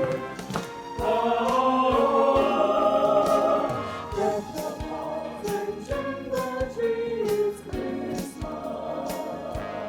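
High school choir singing, with a steady beat underneath.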